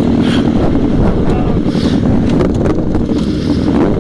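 Sport motorcycle engine running steadily, with wind buffeting the microphone.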